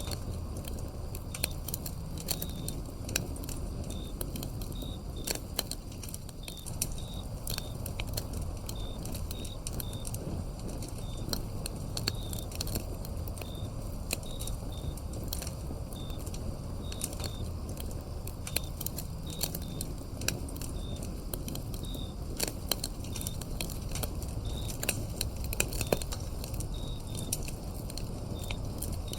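Wood fire crackling, with sharp irregular pops over a low steady rumble of burning logs. Crickets chirp throughout in short high chirps.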